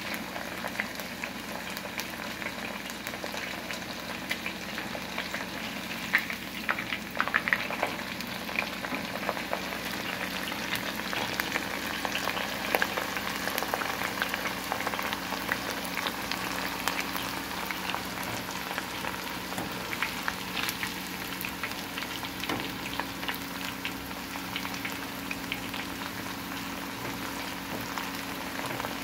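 Chicken pieces deep-frying in hot oil in a small pan: a steady sizzle full of small pops and crackles, the popping louder and denser for a couple of seconds about six seconds in.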